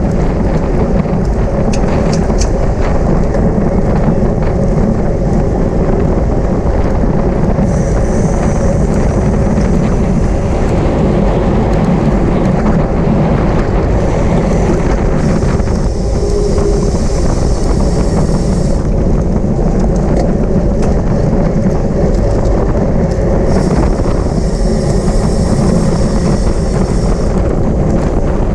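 Wind rushing hard over the microphone of a camera on a moving racing bicycle, a steady loud roar. A higher hiss joins it three times, for a few seconds each.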